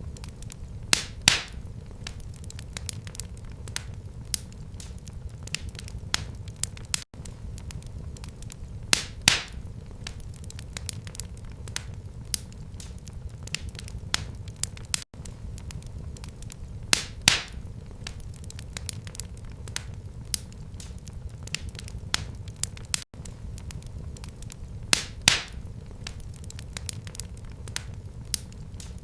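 Wood fire in a fireplace crackling steadily over a low rumble, with many small snaps and a louder pop about every eight seconds.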